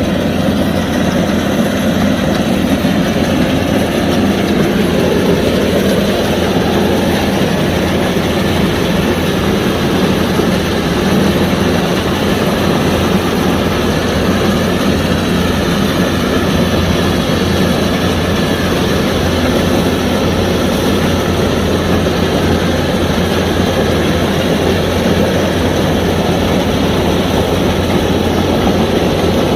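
Kubota DC-105X combine harvester's diesel engine and machinery running steadily while harvesting rice, a loud, continuous mechanical drone with a deep hum underneath.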